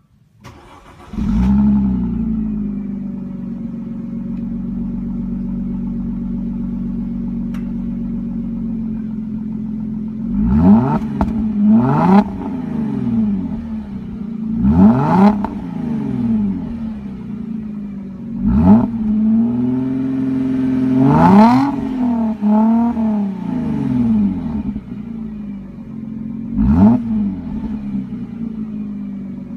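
A 2006 Mercedes-Benz C230's M272 V6 with an AMG exhaust, started from cold: it catches about a second in, flares up and settles to a steady idle. From about ten seconds in it is revved in a series of short throttle blips, each rising and falling back to idle.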